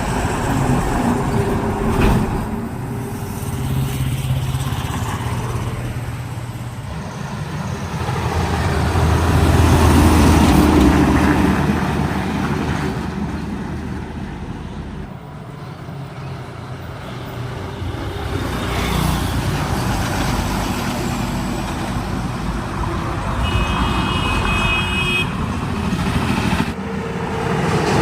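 Road traffic with heavy trucks and other vehicles passing, engines swelling and fading in turn. A brief high-pitched tone, like a horn, comes near the end.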